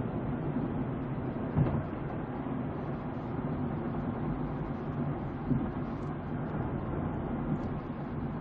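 Steady road and engine noise of a moving car, heard through a dashcam's microphone, with two brief knocks about a second and a half in and again past the middle.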